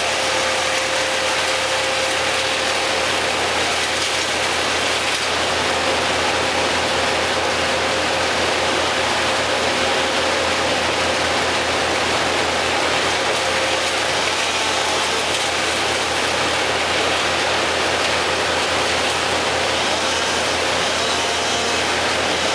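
Machinery running steadily throughout, a dense even noise with a faint steady whine and a low hum underneath, with no cuts or impacts.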